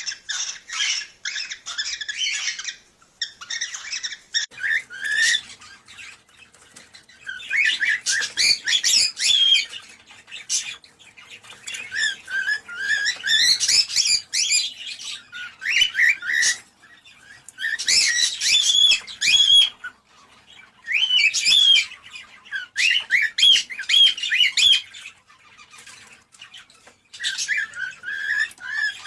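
Cockatiels chattering and warbling in quick chirpy phrases, in bursts of one to three seconds separated by short pauses.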